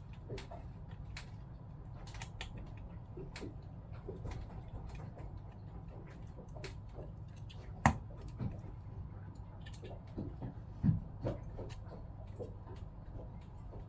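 Small clicks and taps of tools and metal and plastic pump parts being handled while a Jabsco diaphragm pump is taken apart, with a sharp click about 8 s in and another knock near 11 s, over a low steady hum.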